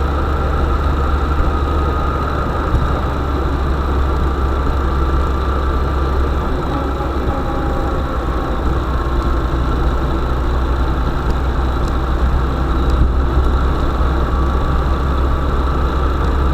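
UAZ 'Bukhanka' van engine running steadily, a deep constant hum with no change in speed.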